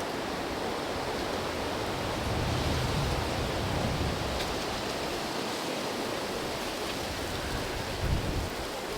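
Steady wind rushing through trees, with gusts buffeting the microphone as a low rumble, stronger from about two to four seconds in and again near the end.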